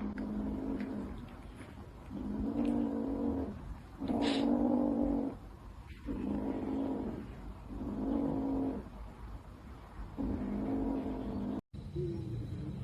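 A domestic cat yowling in long, drawn-out calls, about six in a row, each about a second long.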